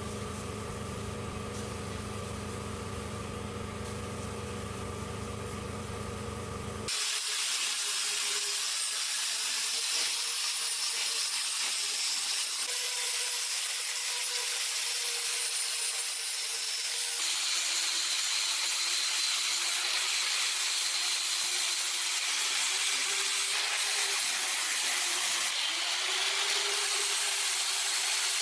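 Power tool running steadily with an even hum for about seven seconds. Then, after an abrupt change, a louder steady hiss of abrasive rust-removal work on metal, with a faint wavering motor tone beneath it.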